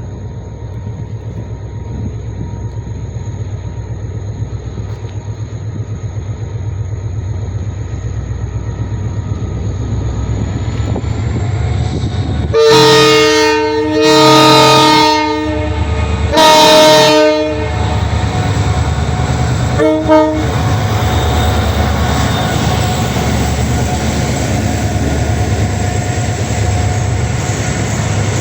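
TCDD DE 33000-class diesel-electric locomotive's diesel engine running and growing steadily louder as it pulls away under power. About halfway through it sounds its trembling horn in three blasts of about a second each, followed by a short fourth blast.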